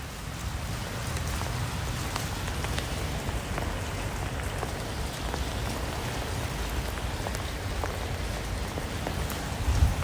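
Steady rain falling, with many separate drops pattering on a surface over the hiss. It swells up over the first second or two.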